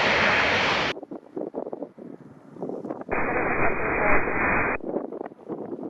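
Jet airliner engine noise that cuts off abruptly about a second in, followed by wind buffeting the microphone. Midway there is a burst of air-traffic-control radio static lasting about a second and a half.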